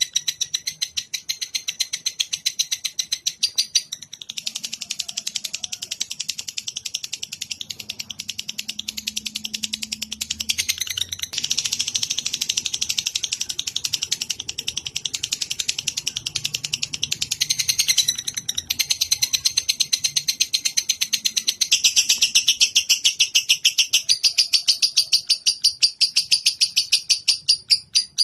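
Lovebird chattering in a long, fast trill of high chirps repeated several times a second, with only brief breaks.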